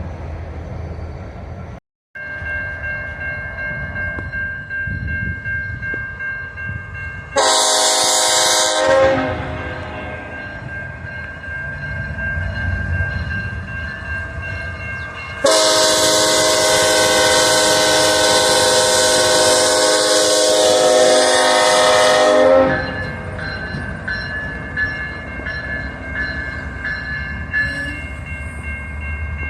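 Train running past while the locomotive's multi-note air horn sounds: a short blast about seven seconds in, then a long held blast from about 15 to 23 seconds in. Steady train running noise fills the rest.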